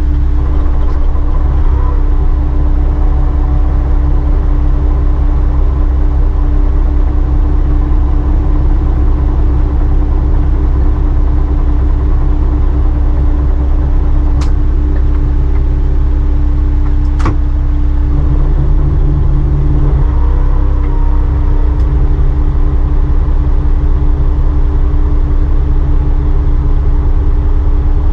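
Engine of a small Yamaha fishing boat running steadily under way, a loud constant low drone. Two brief sharp clicks sound partway through.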